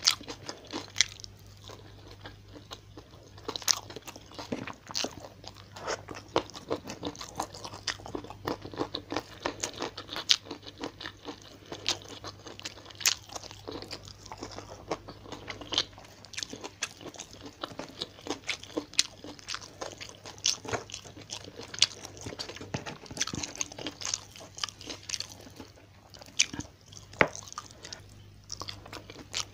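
Close-miked eating sounds of a person chewing a mouthful of fried tilapia, rice and greens: irregular wet crunches and sharp mouth clicks, with a faint steady low hum underneath.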